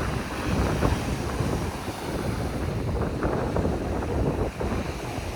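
Wind buffeting the microphone, a steady low rush broken by irregular gusty thumps.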